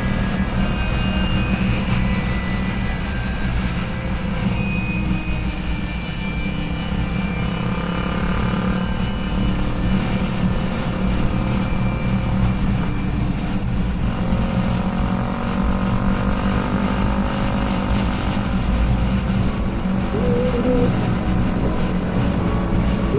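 Motorcycle engine running at road speed with wind and road noise, a steady drone with faint wavering tones above it.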